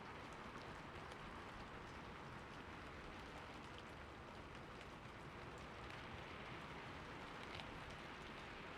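Soft steady rain falling on city surfaces, a constant gentle hiss with faint scattered drop ticks.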